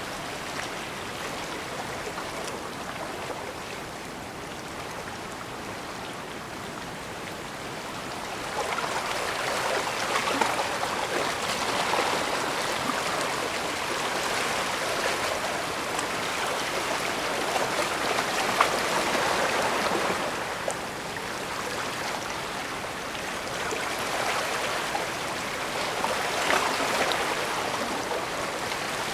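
Small waves washing and lapping at the water's edge: a continuous rush of water that swells louder for several seconds at a time, most strongly in the middle and again near the end.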